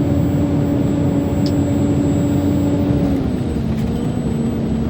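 Heavily loaded truck's engine running steadily as it climbs a mountain grade; its note drops slightly about three seconds in.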